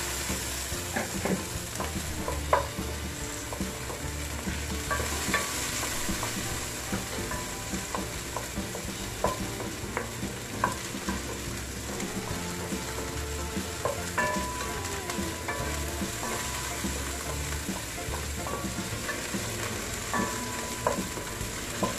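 Sliced onion and ginger sizzling in hot olive oil in a pot, with a wooden spoon stirring them and knocking against the pot at irregular moments.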